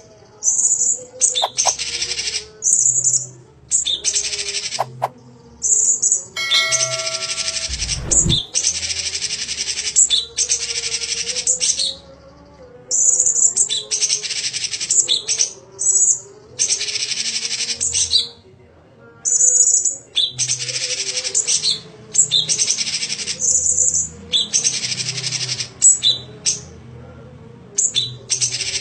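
Songbird singing in repeated bursts of high, rapid chattering phrases, each from half a second to about two seconds long, with short pauses between them.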